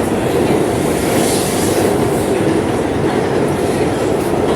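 R211 subway train running at speed between stations, heard from a ride aboard: a steady, loud rumble of wheels on rail and traction motors, with some clatter.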